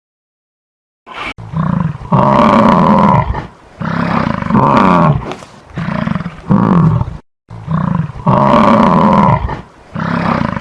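A large animal roaring: a series of loud, drawn-out roars one every second or two, several falling in pitch at the end.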